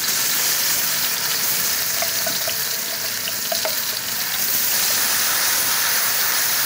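Ground spice paste of shallots, garlic and red chilies sizzling steadily in hot oil in a stainless steel wok as it is scraped in and stir-fried, with a few light ticks over the hiss.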